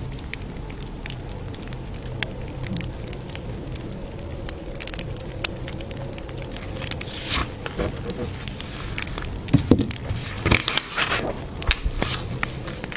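Campfire crackling with scattered sharp pops over a steady low hiss, and a cluster of louder pops and rustles in the second half.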